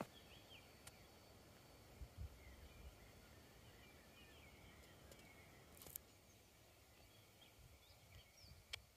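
Near silence with faint birdsong: scattered short chirps, and one sharp click about six seconds in.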